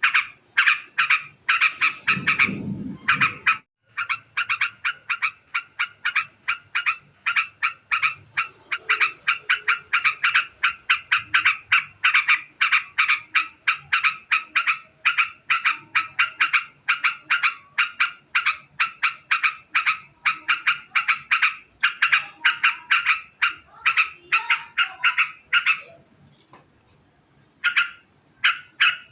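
Yellow-vented bulbul giving a long, very fast chattering call: sharp notes repeated several times a second in unbroken runs, with a short pause near the end. There is a brief low rumble about two seconds in.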